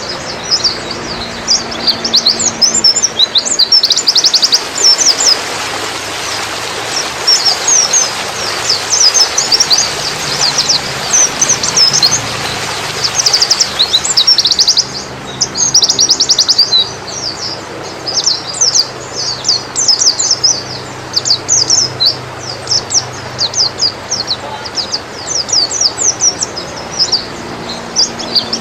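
White-eye (pleci, Zosterops) singing: rapid runs of high, twittering chirps and trills following one another almost without a break, over a steady hiss.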